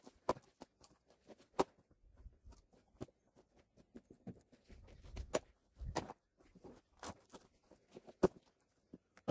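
Irregular light knocks and clicks, a few at a time with short gaps, the sharpest of them a little past the middle and near the end.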